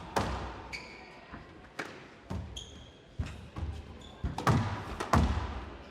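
Squash rally: the ball is struck by rackets and smacks off the court walls in sharp, echoing cracks every second or so. Court shoes squeak on the floor a few times between shots.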